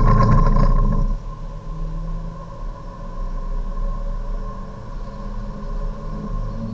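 Hyundai Avante Cup race car's engine heard from inside the cabin, accelerating hard in third gear under full throttle as the revs climb toward about 6,000 rpm. A loud, rough burst comes in the first second, then the engine settles into a steadier note with a constant high whine.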